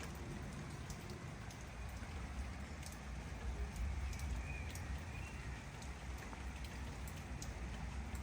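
Steady rain falling, with many individual drops ticking sharply close by, over a steady low rumble.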